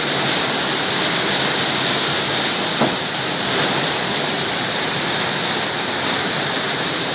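Heavy rain falling steadily, a dense even hiss, with one short tick about three seconds in.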